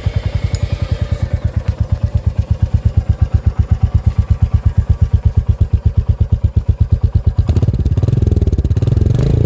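Royal Enfield Meteor 350's single-cylinder engine catching just after the starter and idling with a steady, even thump through the exhaust. Near the end the throttle is opened and the revs rise and fall.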